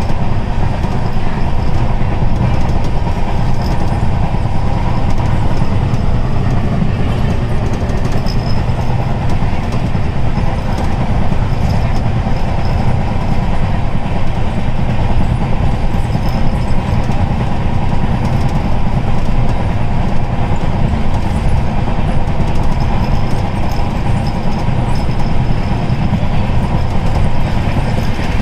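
Running noise of a moving passenger train heard from inside the coach: a loud, steady rumble of wheels and carriage, heaviest in the low end, with no breaks.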